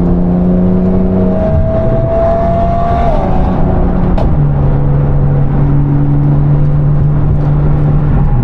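Sports car engines under way on the road, running steadily. One engine tone rises slowly, then the engine note steps down in pitch about four seconds in, with a single sharp crack just before the drop. The cars are a Porsche 911 Turbo S and a straight-piped Audi R8 V10 driving together.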